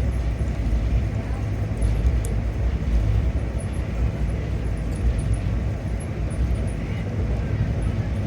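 Passenger train running along the track, a steady low rumble of wheels on rails.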